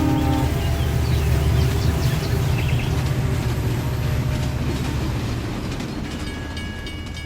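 Train running past, its horn cutting off about half a second in, followed by a steady low rumble of the train that slowly fades.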